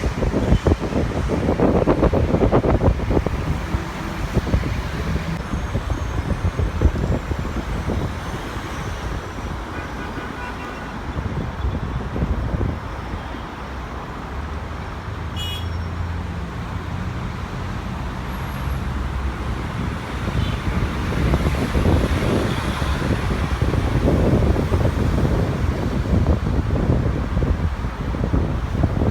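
Jet airliner engines rumbling steadily, with wind buffeting the microphone; the noise swells near the start and again in the last third, with a faint high turbine whine.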